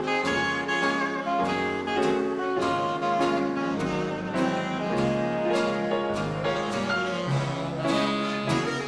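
Big band dance orchestra playing a 1930s-style number with a steady beat.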